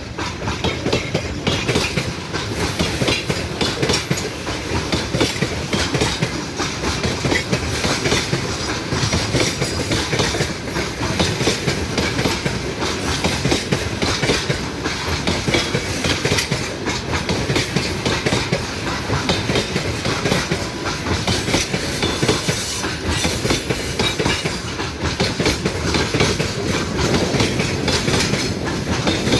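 Railway wagons rolling past close by: a continuous clatter of wheels clicking over rail joints, steady in loudness throughout.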